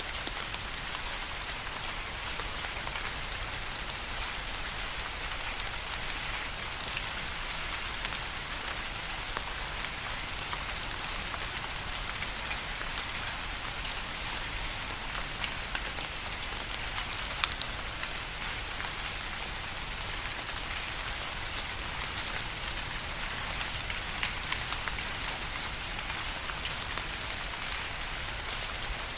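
Steady rain falling, an even hiss of many small drops with individual drop ticks scattered through it and one sharper drop hit a little past halfway.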